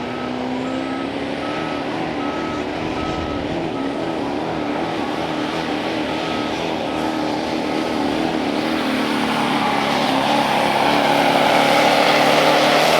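Competition pulling engine running at full throttle under heavy load as it drags the weight sled down the track, its pitch wavering and the sound growing louder toward the end. A steady beeping, about two beeps a second, runs through the first half and fades out.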